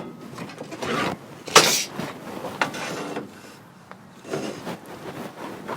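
A few short scraping and knocking noises of materials being handled, the loudest about a second and a half in.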